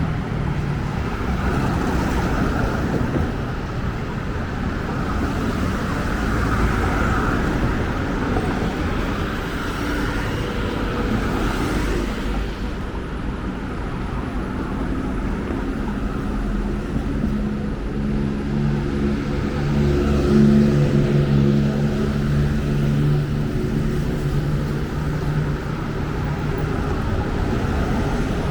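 City street traffic: a steady wash of passing road vehicles. A nearby engine's low, steady hum stands out through the second half.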